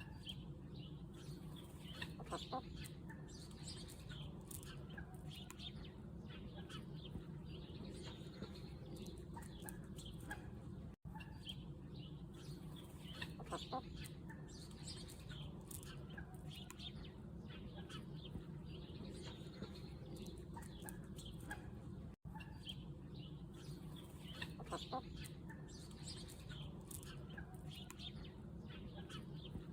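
Chickens clucking, with short high bird chirps over a steady low hum. The same stretch of sound repeats about every eleven seconds, with a brief dropout at each join.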